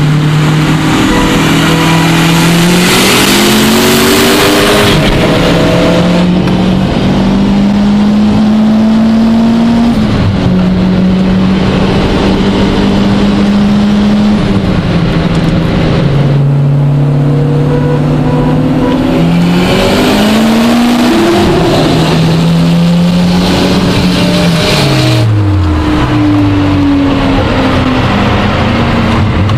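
Audi A3's big-turbo engine heard from inside the car, revving up and dropping back several times as it pulls through the gears and lifts off, with stretches of rushing wind and road noise.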